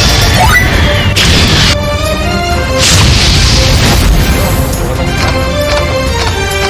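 Online slot game music with game sound effects: a steady tune broken by a few loud rushing, booming crash effects, about one and three seconds in.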